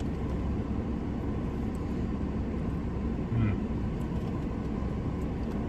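Steady low rumble of a running vehicle, with a brief voice-like sound about three and a half seconds in.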